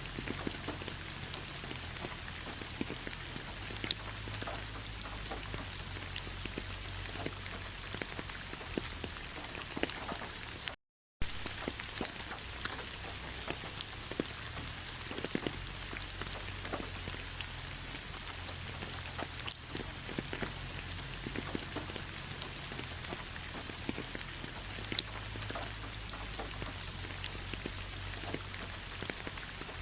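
Steady autumn rain falling on fallen leaves: a dense patter of drops, with many separate sharp drop ticks against the steady hiss. The sound cuts out completely for a fraction of a second about eleven seconds in.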